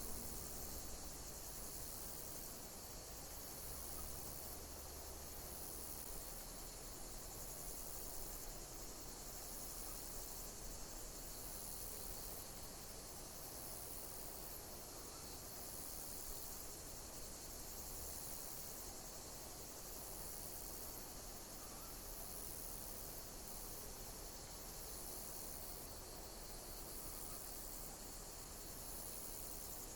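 Insects chirping in a steady high-pitched chorus, with a pulse in the sound repeating about every two seconds.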